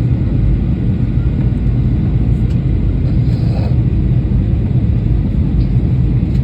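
Steady low rumble of an airliner's engines and airflow, heard inside the passenger cabin in flight.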